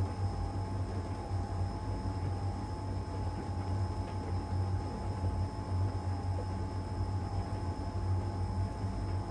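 LG heat pump tumble dryer running in its drying phase: a steady low hum with a fainter, higher steady whine over it.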